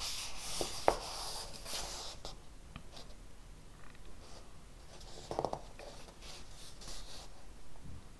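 Writing on paper: irregular scratchy strokes, with a sharp tap about a second in.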